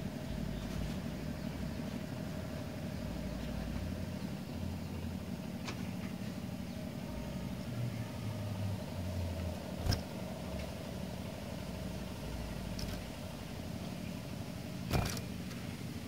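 Steady low rumble with a faint hum, like a running motor or distant traffic, broken by a few sharp clicks: one near 6 seconds, a louder one about 10 seconds in, and one near 15 seconds. No bird song is heard.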